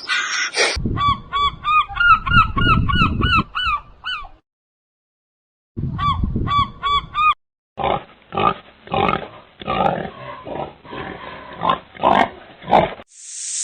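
An animal calling: a rapid series of short, pitched calls, about three a second, in two runs, followed by a run of rougher, pulsed calls. A short hiss starts near the end.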